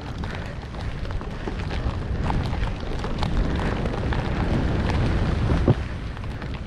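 Snowboard sliding through powder snow with wind buffeting the camera microphone: a steady rumbling rush that builds over the first five seconds, with a short knock near the end.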